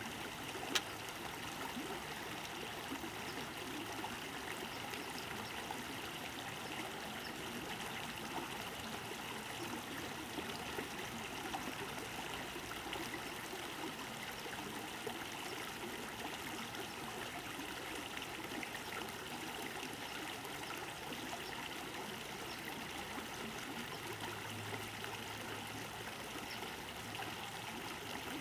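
Creek water running and trickling steadily. There is a single sharp click a little under a second in.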